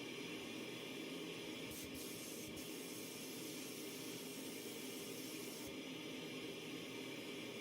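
Steady hiss of a compressed-air spray tool working, such as a sandblaster or paint spray gun.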